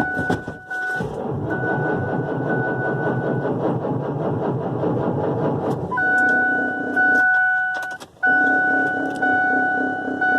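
Caterpillar C7 diesel being cranked cold by its starter for several seconds without firing, over a steady warning chime from the truck's dash.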